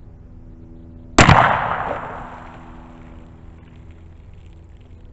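A single gunshot from a Hi-Point 1095 10mm pistol-calibre carbine, about a second in, firing a DoubleTap controlled-expansion jacketed hollow point into water jugs. The shot is sharp and very loud and echoes away over about a second and a half.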